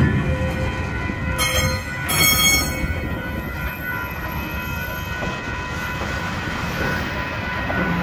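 Empty flat container wagons of a freight train rolling past at a level crossing: a steady rumble of wheels on rail, with two short high wheel squeals about one and a half and two and a half seconds in.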